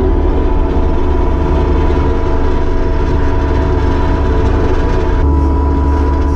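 Kubota SVL75-2 compact track loader's diesel engine running steadily, with a deep drone, held at working speed; the higher part of the sound drops away about five seconds in.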